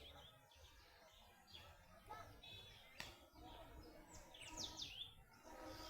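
Faint birds chirping, with a quick run of sharp falling chirps about four and a half seconds in.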